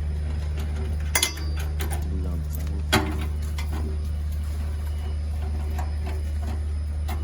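Steady low machine hum, with two sharp clicks of a tool on metal, about a second in and about three seconds in, while the generator's fuel tank is being unbolted.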